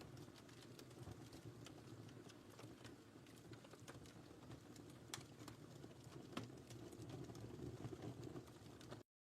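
Wood fire in a fireplace crackling softly: a low steady rustle with scattered sharp pops. The sound cuts out completely near the end.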